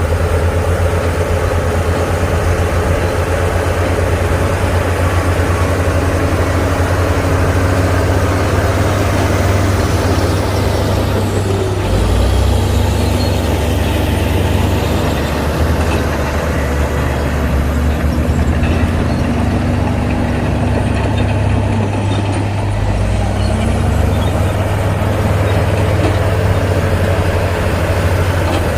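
Heavy diesel engine of a LiuGong crawler bulldozer working under load, running continuously with a deep steady note that shifts twice as the load changes.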